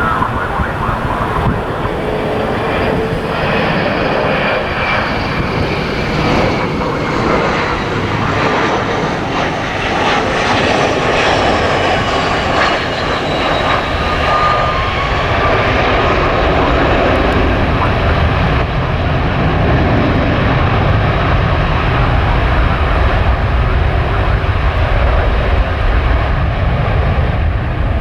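Jet airliner passing, its engines giving a steady roar with a whine that slowly falls in pitch as it goes by, and a deeper rumble building over the second half.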